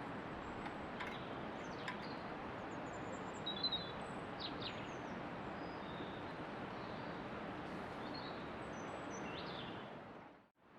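Steady outdoor background noise with small birds chirping now and then in short high notes. The sound cuts out sharply for a moment near the end.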